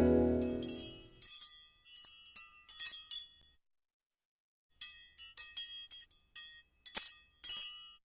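The final guitar chord of a song fades out in the first second. Then come high tinkling chime notes, like small bells or clinking glass, in two quick groups with a pause of about a second between them.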